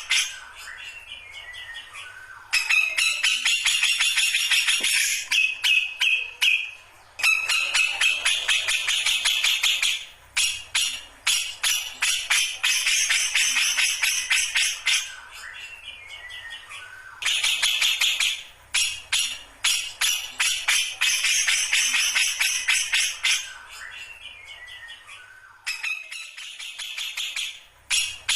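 Grey-cheeked bulbul (cucak jenggot) in full song: loud bursts of rapid, metallic, jingling chatter and ringing notes, broken by short pauses, with a few descending whistled notes in the gaps.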